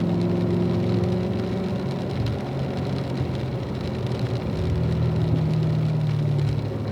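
Car engine running as it is driven through a corner, with the hiss of tyres on a wet track; the engine note eases off just after the start and builds again around the middle.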